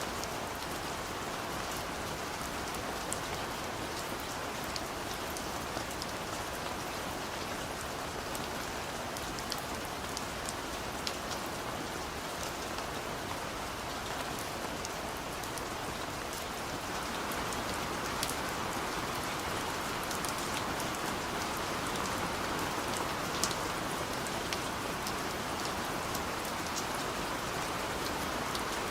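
Steady rain falling: an even hiss dotted with many sharp little drop ticks, growing slightly louder a little past halfway.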